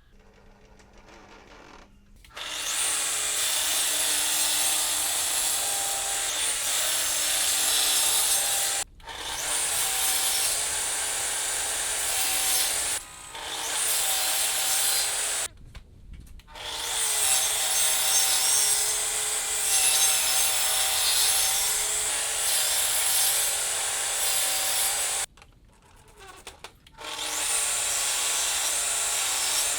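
Power tool working on wood with a steady whirring noise, starting about two seconds in and running in long stretches with several short stops.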